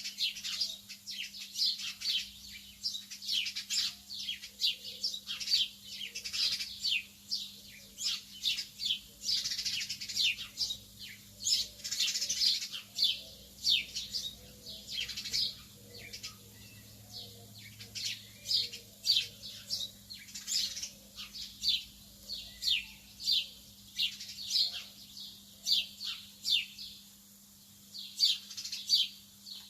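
Lovebirds chirping: a continuous stream of short, sharp, high chirps, several a second, each sweeping down in pitch. A faint steady low hum runs underneath.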